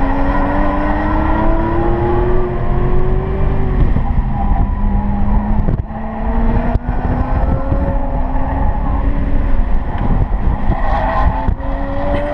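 Cadillac CTS-V's V8 under hard acceleration on a race track. Its pitch climbs steadily through each gear and drops at upshifts about four and six seconds in, over steady road and tyre rumble.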